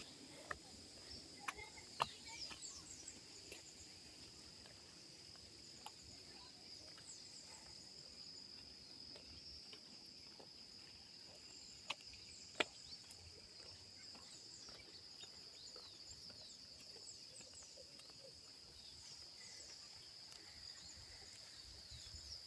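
Faint, steady high-pitched trilling of crickets in the evening, with a few sharp clicks scattered through it.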